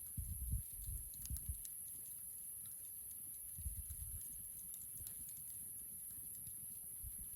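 A wood campfire crackling with faint, scattered small pops, along with a few soft low thumps and a steady high hiss.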